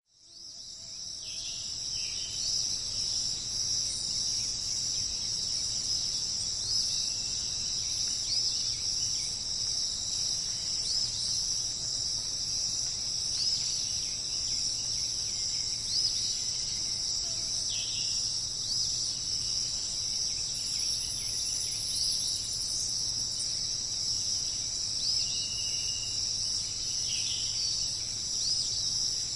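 A steady, high-pitched insect chorus, like crickets, fades in over the first second or two. Short bird chirps sound over it every second or two.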